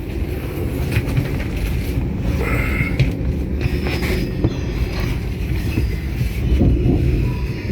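Passenger train running, heard from inside the carriage: a steady low rumble of the ride, with a few sharp clicks and knocks from the wheels and carriage.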